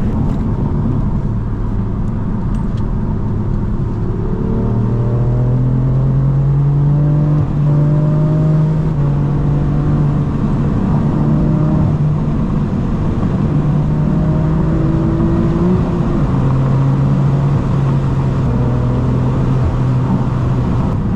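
BMW M4 F82's twin-turbo inline-six running through its AWE SwitchPath valved exhaust while driving. The engine note climbs steadily under acceleration from about four seconds in, then holds, and climbs again later.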